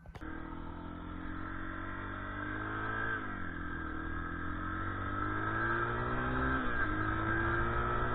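Motorcycle engine accelerating through the gears: the pitch climbs steadily, drops sharply at an upshift about three seconds in, climbs again and drops at a second upshift near seven seconds.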